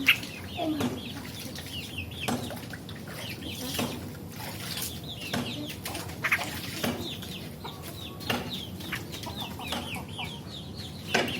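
Yellow-vented bulbul (cerukcuk) singing non-stop: a rapid chatter of short high notes, broken every second or two by a louder, sharper call.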